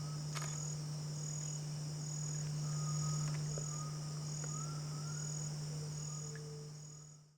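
Steady high-pitched insect chorus of crickets or cicadas, with a pulsed chirp repeating about every half second over a low steady hum. A few faint short bird notes come through in the middle, and the sound fades out at the end.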